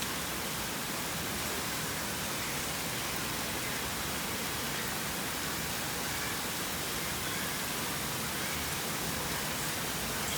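Rain falling steadily, an even hiss with no change in loudness.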